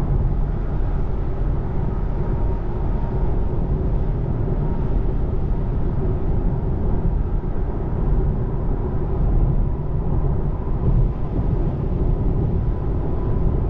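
Steady road noise heard inside the cabin of a Tesla Model 3 driving on wet pavement: a low tyre rumble with a hiss of water spray over it, and no engine sound.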